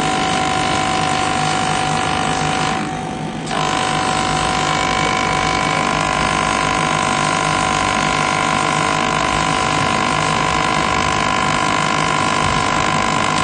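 Spray-extraction carpet cleaner running with a steady motor whine while spraying soapy water to soak a car mat; the sound dips briefly about three seconds in, then carries on.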